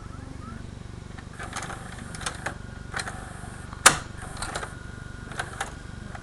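A VHS cassette being inserted into a Toshiba DVR620KU DVD/VCR combo and taken in by its loading mechanism: a series of clicks and clunks, the loudest about four seconds in, over a steady low hum. A faint steady whine from the mechanism starts about five seconds in.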